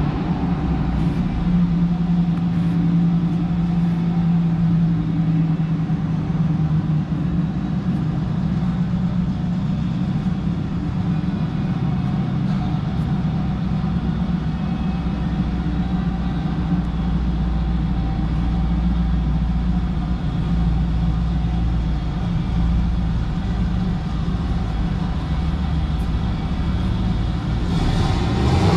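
A motor vehicle running steadily: a low, even rumble with a steady hum and no revving or breaks.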